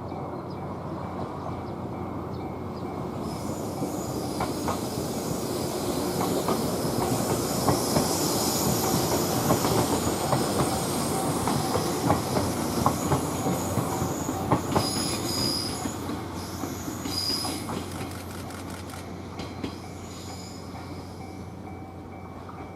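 An Echigo TOKImeki Railway express train, a 413-series electric multiple unit, passing by. It grows louder over several seconds, then fades, with the wheels clicking over rail joints and a few short high wheel squeals past the middle.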